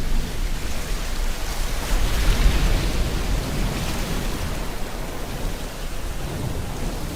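Steady rain falling together with ocean waves washing on the shore, a wave swelling up about two seconds in.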